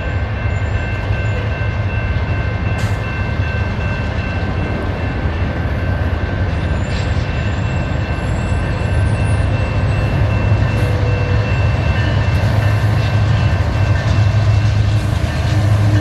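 Diesel locomotives of a freight train, a CN SD70M-2 and a BNSF C44-9W, running with a steady low rumble that grows louder in the second half as they approach.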